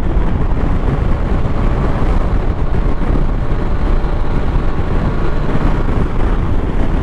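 Wind rushing over the microphone while riding, over the steady drone of a Yamaha NMAX scooter's single-cylinder engine with a 63.5 mm SCK Racing bore-up block, cruising without change in pace.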